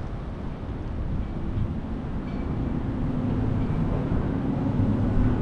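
A car's engine and tyre noise on the road: a steady low rumble, with a faint steady hum coming in during the second half.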